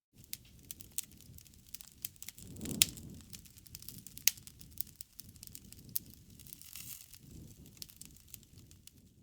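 Wood fire crackling and popping in irregular sharp snaps over a low rush of flame. The sharpest pops come about three and about four seconds in.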